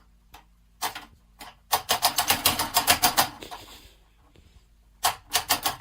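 Rapid series of sharp taps or clicks, a couple of single ones and then a run of about eight a second lasting a second and a half, with another quick run near the end.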